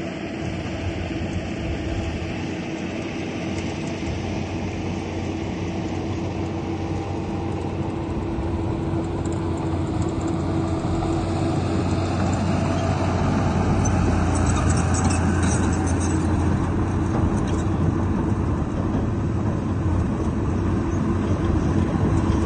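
Heavy diesel engine of earthmoving machinery running steadily, growing louder from about eight seconds in, with faint high metallic squeaks around the middle.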